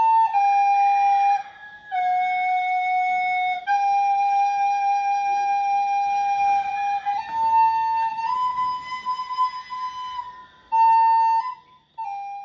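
Music: a solo flute playing a slow melody of long held notes, each lasting a second or more, stepping gently up and down.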